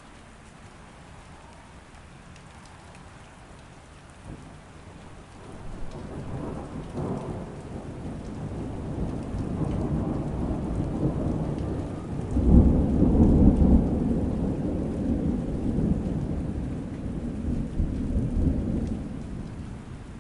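Steady rain with a long roll of thunder that builds about a quarter of the way in, breaks loudest a little past the middle, then rumbles on and fades near the end.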